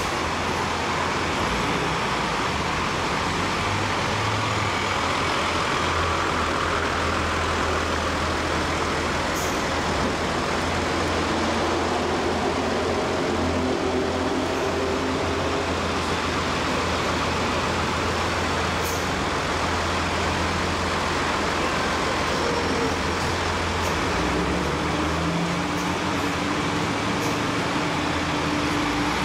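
Steady motor vehicle noise: an engine hum under a continuous rushing road noise, with a few faint steady tones coming in near the end.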